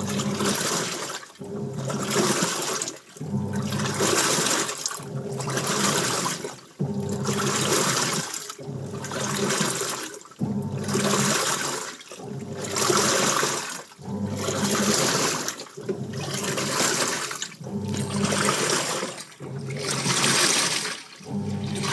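Washing machine in its wash cycle, churning water and clothes back and forth: regular surges of sloshing about every two seconds, each with a low motor hum.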